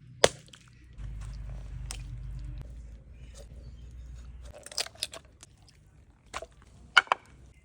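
A few sharp, separate crunches and knocks, the loudest just after the start and a quick double one near the end, with a low hum underneath for a few seconds in the middle.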